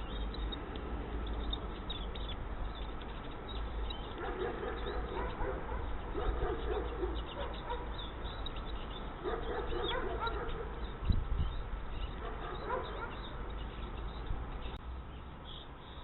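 Animal calls in several irregular bouts over a low, steady rumble, with a single thump a little after the middle.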